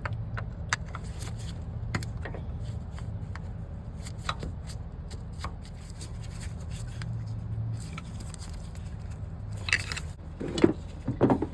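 Pry bar and screwdriver scraping and clicking against a Cummins ISX 15 water pump as it is pried out of its housing, with a few louder knocks near the end.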